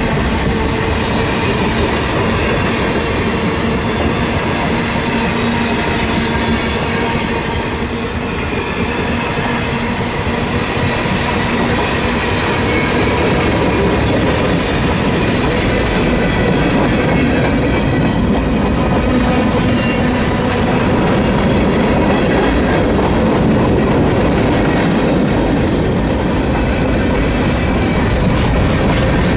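Freight cars of a mixed freight train rolling past close by: a steady rumble and clatter of steel wheels on the rails, with a faint steady whine above it.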